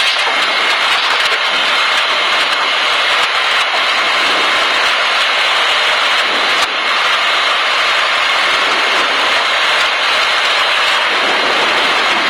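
Cessna 152's four-cylinder Lycoming piston engine and propeller running steadily at low taxi power, heard from inside the cockpit as a loud, even drone.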